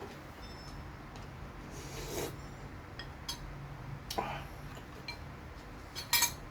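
Quiet eating sounds with a few sharp clinks of a utensil against a dish. The loudest clinks come as a quick cluster near the end.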